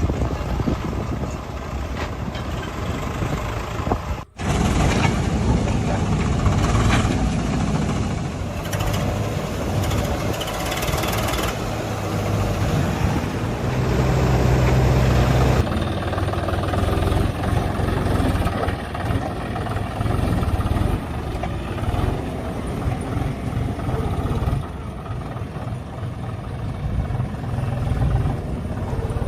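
Heavy diesel engine running and working under load, rising and falling in level. The sound breaks off for a moment about four seconds in and changes abruptly about halfway through.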